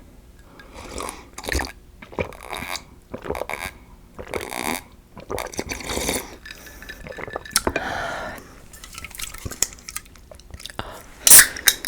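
Close-miked gulps and swallows of a grape fruit-vinegar drink, a series of short wet sounds with pauses between. Near the end come two loud, sharp knocks.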